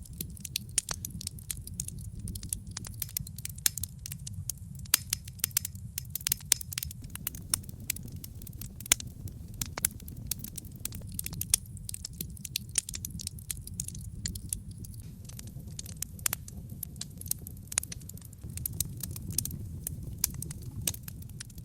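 Wood logs burning in a fireplace, crackling: frequent irregular sharp pops and snaps over a steady low rumble of the flames.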